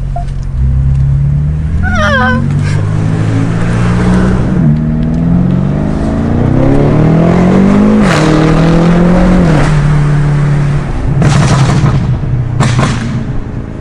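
Twin-turbo 4.4-litre V8 of a 2019 BMW M5 with a straight catback exhaust, accelerating hard: the engine note climbs in pitch through several quick upshifts. Near the end come loud pops and crackles from the exhaust.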